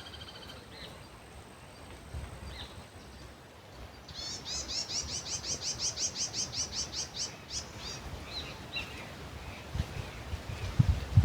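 A bird sings a fast trill of repeated high chirps, about six a second, starting about four seconds in and lasting some three and a half seconds, with a few stray chirps after it. Underneath is a faint steady outdoor hiss, and a low rumble of wind on the microphone rises near the end.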